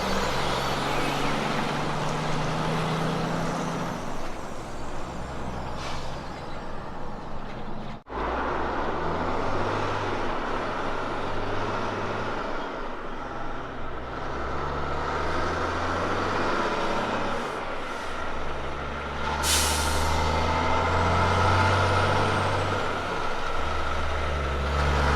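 Road train prime movers' diesel engines running under load, the engine note stepping up and down in pitch. There is a short burst of air-brake hiss about two-thirds of the way through.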